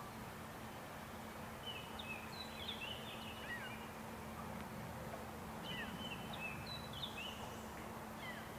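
Small birds chirping faintly: short, thin, high notes in two quick flurries about two and six seconds in, with a low steady hum underneath.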